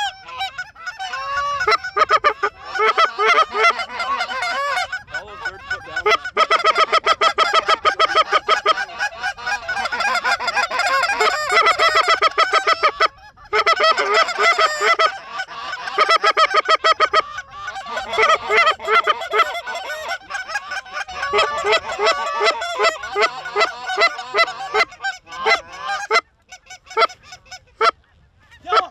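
Geese honking, many honks overlapping in a dense, nearly continuous chorus, with a short lull about 13 seconds in and thinning out near the end.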